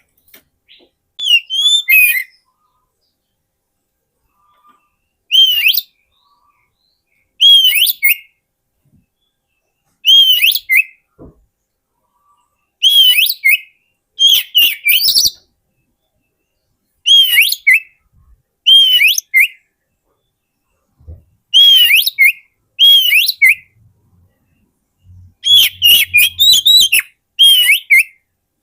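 Oriental magpie-robin calling: about a dozen short whistled phrases, each a quick arched note that falls away, repeated every two to three seconds with silent gaps between.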